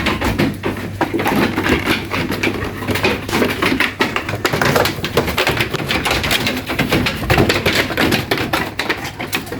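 Goats in a pen making a dense, irregular run of clicks, knocks and rustles, with a steady low hum underneath.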